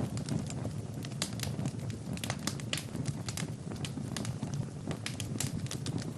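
Fire burning in a fireplace: irregular sharp crackles and pops several times a second over a steady low rumble of the flames.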